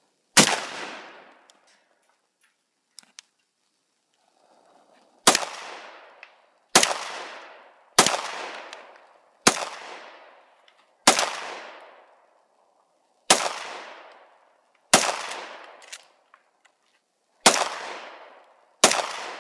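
Gunshots: one about half a second in, then after a pause of about five seconds, ten more fired one at a time every one to two seconds, each followed by an echo that fades over about a second.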